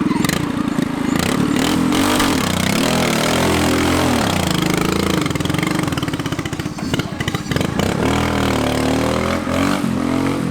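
Modified lawn tractor engine revving hard, its pitch rising and falling again and again under a wash of noise, as the tractor is driven through a mud bog.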